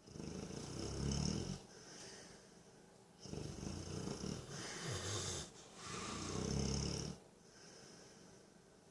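A sleeping dog snoring, about three loud, rasping snores a couple of seconds apart, with quieter breathing between them.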